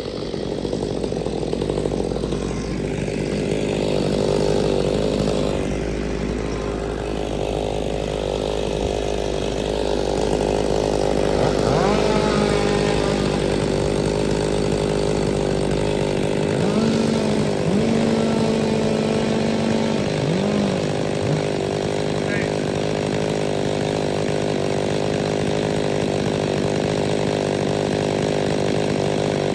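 Chainsaw running steadily, its engine pitch briefly rising and falling a few times near the middle as the throttle changes.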